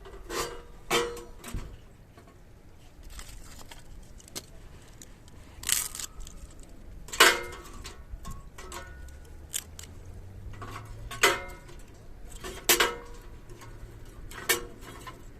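Metal parts of a sheet-metal fire pit and smoker being handled: about seven separate sharp clanks, each ringing briefly, at irregular intervals.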